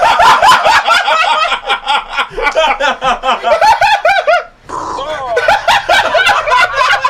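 People laughing hard, voices overlapping in rapid repeated pulses, with a short break about four and a half seconds in before the laughter picks up again.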